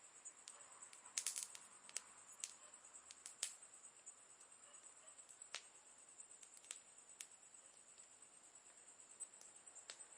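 Campfire crackling quietly, with scattered sharp pops and a quick cluster of them about a second in, over a steady high-pitched hiss.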